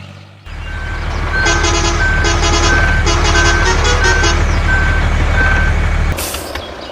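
A mini truck's small engine running loudly and steadily, with a reversing beeper giving eight short, evenly spaced beeps, about one and a half a second. The engine sound cuts off abruptly about six seconds in.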